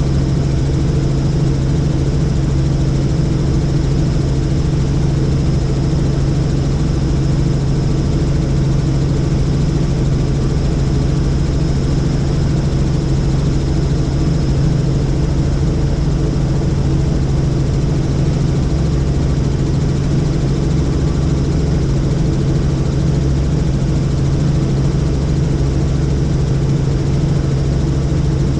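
Helicopter in flight, heard steadily: a constant low drone from the rotor and engine with a faint high whine above it, unchanging throughout.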